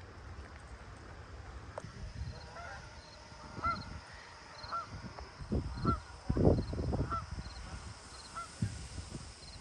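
A goose honking repeatedly, about seven short calls roughly a second apart, starting a few seconds in. Low rumbling thumps on the microphone come in the middle and are the loudest sound.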